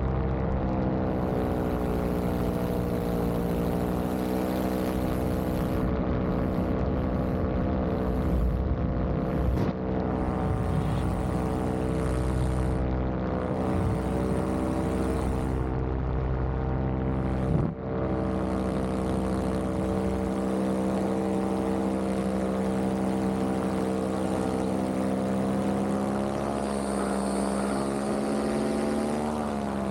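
Vittorazi Moster 185 single-cylinder two-stroke paramotor engine and propeller running steadily at cruise power in flight. The engine pitch dips briefly near the end.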